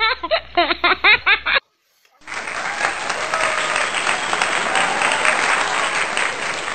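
A short stretch of voice with gliding pitch, muffled and thin, cuts off abruptly about one and a half seconds in. After a brief gap, a dense, steady, crackling noise like applause sets in and holds, with voices faint beneath it.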